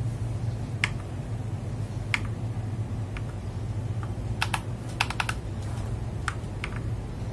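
Mechanical keyboard keys pressed one at a time, switching the keyboard's RGB lighting modes. Sharp single clicks about a second apart, with a quick run of several presses about five seconds in, over a steady low hum.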